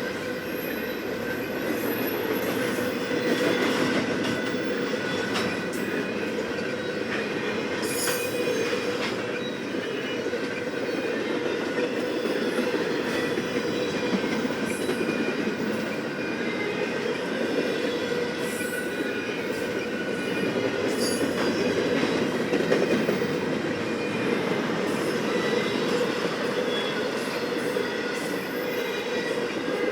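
BNSF intermodal freight train rolling past: a steady rumble of steel wheels on rail, with thin wheel squeal tones and a few sharp clicks as the cars go by.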